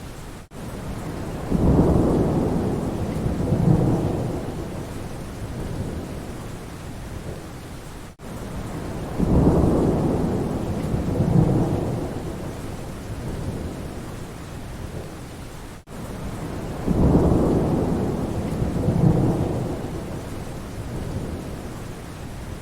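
Steady rain with thunder rumbling three times, each rumble swelling and fading over several seconds. The same short recording repeats about every eight seconds, with a brief gap before each repeat.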